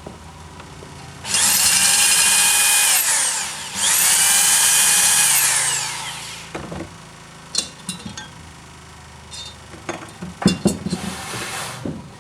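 A power drill runs twice in quick succession, each run about two seconds long: it whines up to speed, holds steady, then winds down. A few sharp clicks and knocks of metal parts being handled follow.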